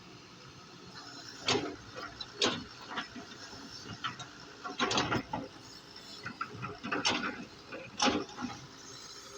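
Doosan DX140 excavator working, with about eight irregular metallic clanks and knocks. The loudest come about a second and a half in, around five seconds in and about eight seconds in.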